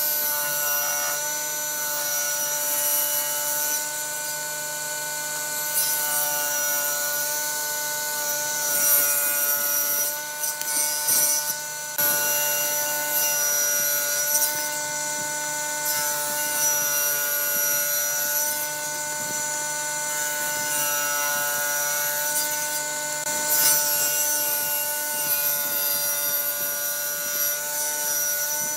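Electric power tool working wood: a steady motor whine under uneven rasping and rubbing noise that swells and eases as the wood is cut or sanded.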